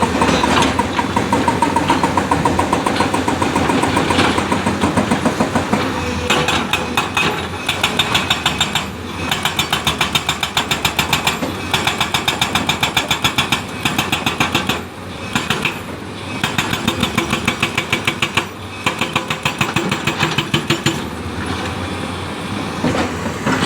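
Excavator working, its engine running under a rapid hammering of about five blows a second that comes in runs with short breaks.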